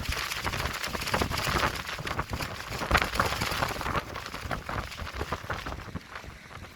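Clear plastic tent sheeting flapping and crackling rapidly in strong gusting wind, with wind rumbling on the microphone; the flapping eases a little in the last couple of seconds.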